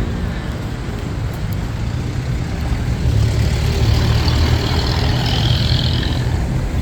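Road traffic close by: vehicle engines and tyres rumbling steadily, getting louder about three seconds in as a vehicle passes.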